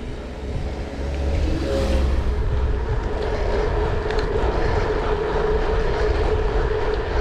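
Steady vehicle running noise: a low rumble under a constant hum, with a few faint clicks, getting louder about a second in.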